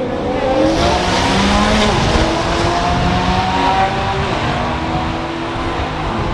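A car engine accelerating, its pitch climbing steadily for about four seconds and then dropping away.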